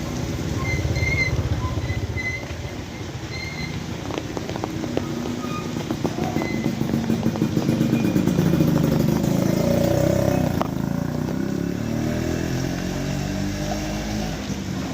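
Steady rain falling while a motor vehicle's engine approaches and passes, its pitch bending as it goes. It is loudest a little past the middle, then fades.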